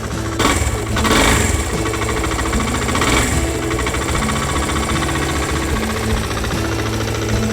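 Suzuki VanVan RV125's single-cylinder four-stroke engine running, louder for a moment twice as the throttle is blipped, about half a second in and again around three seconds.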